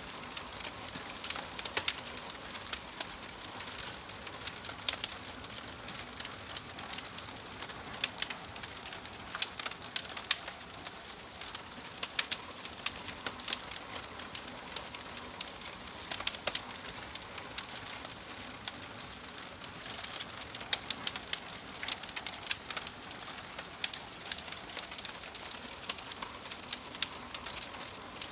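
Wood fire crackling: a steady hiss with frequent sharp pops and snaps, some coming in quick clusters.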